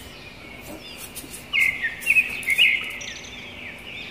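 Birds chirping outdoors, with a few loud clusters of short chirps from about a second and a half to two and a half seconds in, over a steady high-pitched background drone.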